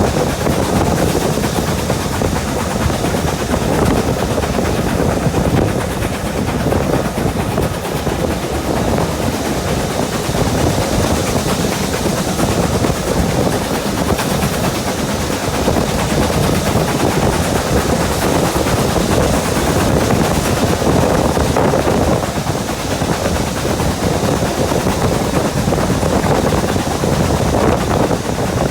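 Railway train running close by: a loud, continuous rushing noise full of rapid, irregular beats.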